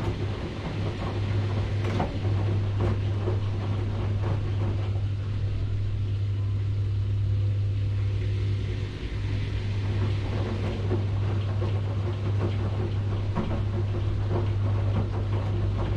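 Washing machine running: a steady low hum with irregular knocks and clatter, which ease off for a few seconds midway before picking up again.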